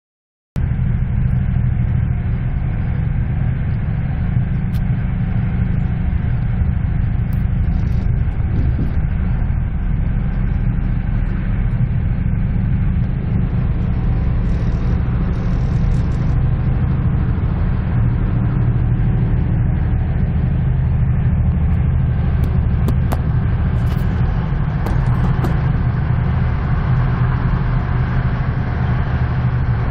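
Steady low rumble of a passenger train running at speed, heard from inside the carriage: wheels on the rails and the coach body, with a few faint clicks in the second half.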